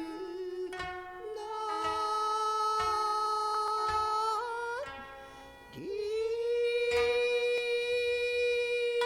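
Kibigaku music: a long held melody line, sung or blown, that slides up into each new note, over a few sharp plucked string notes. It drops away briefly about five seconds in, then swoops up into a new held note.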